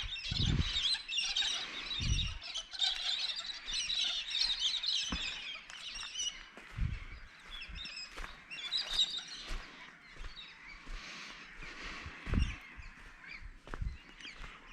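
Chorus of many birds chattering and calling at once, with a few short low thumps scattered through it.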